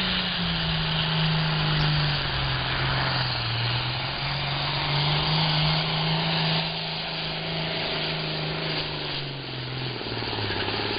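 A John Deere 8410 Super Farm pulling tractor's diesel engine running hard under load as it drags the sled. Its pitch holds fairly steady, wavers, and drops lower near the end.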